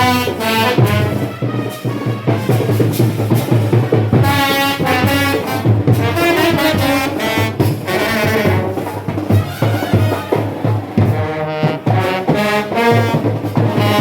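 A brass band playing a tune with drums: trumpets and trombones carry the melody over a steady beat.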